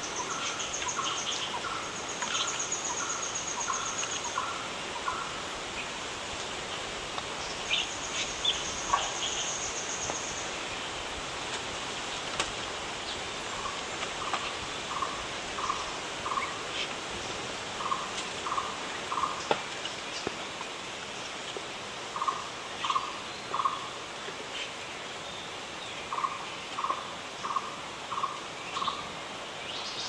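Wild birds calling: runs of three to seven short, evenly spaced notes that come again every few seconds, and three times in the first ten seconds a high, thin trill of a few seconds each, over a steady background hiss.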